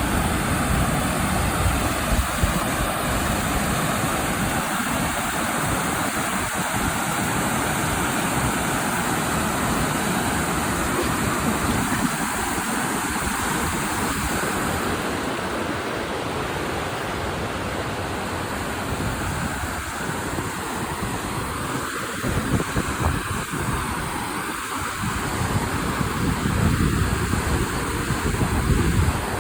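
Creek water rushing steadily, with uneven low rumbling gusts of wind on the microphone.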